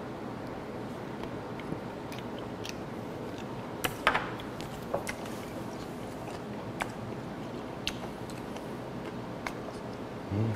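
Close-up chewing of bone-in raw gizzard shad sashimi: wet mouth clicks and small crunches as the soft fish bones are chewed, loudest about four seconds in. A brief low sound comes near the end.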